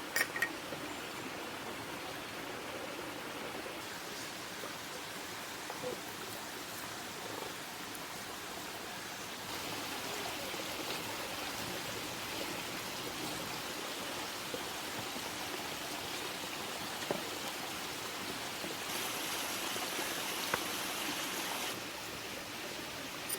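Wood cooking fire: a steady hiss with a few sharp crackles, growing louder and brighter about halfway through.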